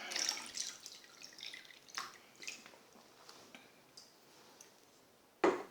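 Water splashing as a betta fish is tipped into its new water: a short pour, then scattered drips and small splashes.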